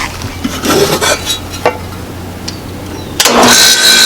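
A few light clicks and knocks, then about three seconds in the air conditioner's outdoor condenser unit starts abruptly and runs with a steady whir and a steady whine. It is starting up on its newly replaced capacitor.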